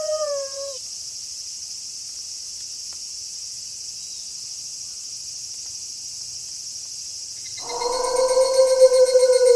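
A wolf howl trails off and drops in pitch within the first second, leaving a steady high chirring of night insects. About three-quarters of the way through, a new long wolf howl begins, held and slowly sinking in pitch.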